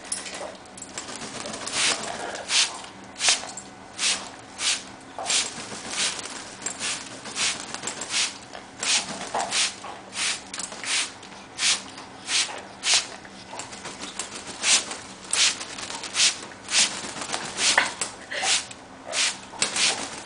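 Handheld spray bottle squirted over and over, misting parrots for a bath: a run of short hissing squirts, roughly one or two a second, with a faint steady hum underneath.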